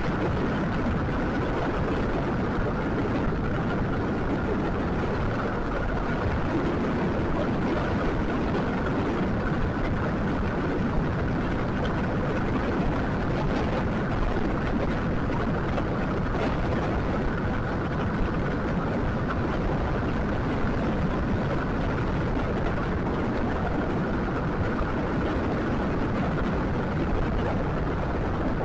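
Steady running noise of a scooter on the move: an even, dense rumble with a faint steady high whine over it.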